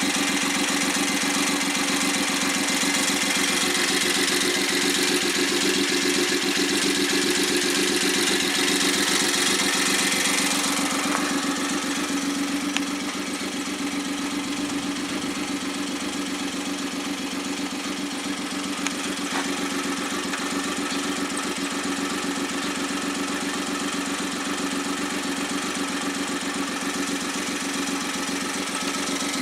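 A rebuilt Suzuki K6A 660 cc three-cylinder engine, run bare on a test stand without its turbocharger, idling steadily after warming up. A high hiss drops away about ten seconds in, and the engine sound grows slightly quieter.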